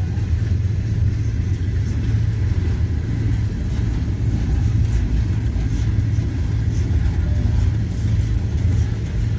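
Freight cars rolling past: a steady low rumble of steel wheels on the rails, with faint clicks here and there.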